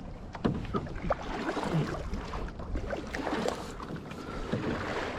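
Kayak paddles dipping and splashing in the water, with a few sharp knocks among the strokes.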